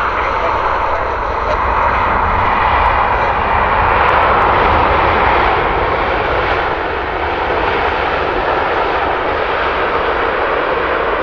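Jet airliner on arrival passing the spotting position, a steady rushing engine noise that swells to its loudest about four to five seconds in and then eases off a little.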